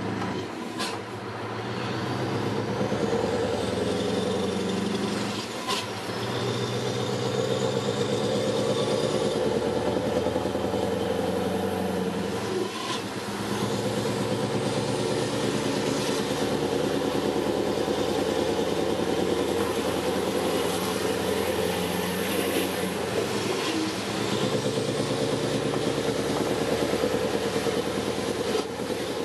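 Scania R500's V8 diesel engine running under way, a steady deep drone that drops briefly and changes note a few times.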